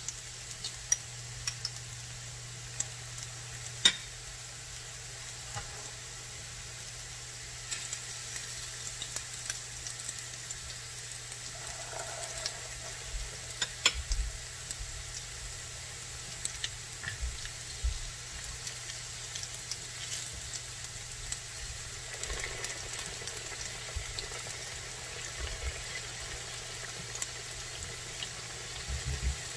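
Tuna-filled wonton dumplings and tofu frying in shallow oil in a pan: a steady sizzle with fine crackling, broken by a few sharp clicks.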